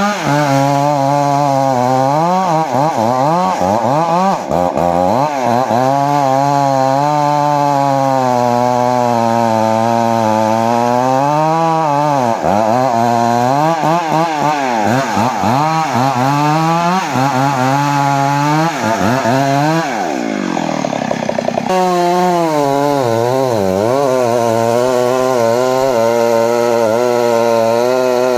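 Engine-driven saw cutting johar wood, its engine pitch rising and sagging again and again as the blade takes load. About two-thirds of the way in, the pitch sinks sharply for a moment before picking back up.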